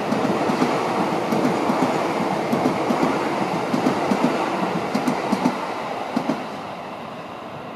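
Freight train wagons rolling past, wheels clacking over the rail joints in a rhythmic beat. The sound fades steadily toward the end as the train moves away.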